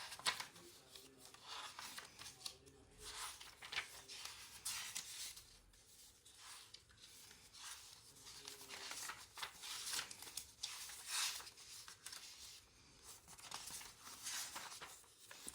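Faint paper rustling and rubbing: the pages of a handmade junk journal being turned and handled, a series of irregular short swishes.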